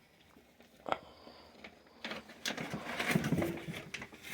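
Handling noise from a bag of pool-filter DE: one sharp click about a second in, then busier rustling and tapping from about two seconds on.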